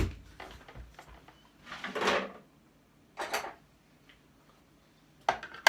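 A sharp knock, then two short scraping or sliding noises and a few clicks near the end, as the casing of an appliance is handled while it is being taken apart.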